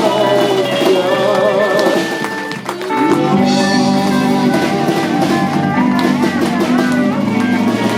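Live country band playing an instrumental passage: sliding lead lines that fit pedal steel over guitar, bass and drums. About two and a half seconds in the playing dips briefly, then the full band comes back in.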